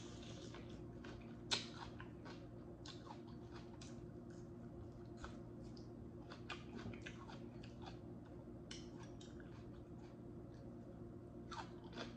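Close-up chewing of crunchy raw mini sweet pepper: irregular crisp crunches and wet mouth clicks, with one sharper crunch about a second and a half in, over a steady low hum.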